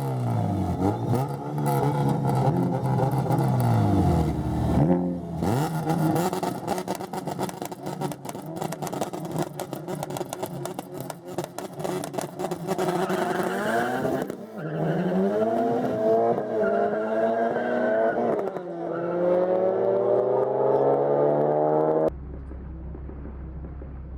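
Car engine pulling hard at high revs. Its pitch climbs, drops at each gear change and climbs again, with a crackle of clicks over it. Near the end it cuts abruptly to a steady low hum.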